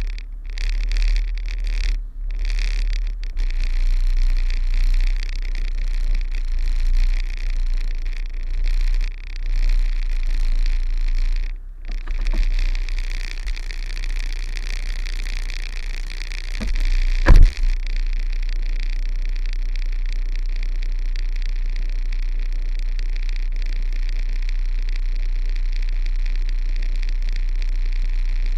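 Kenworth truck's diesel engine running low and uneven while reversing, with one heavy thump about two-thirds through; after it the engine drone goes very steady.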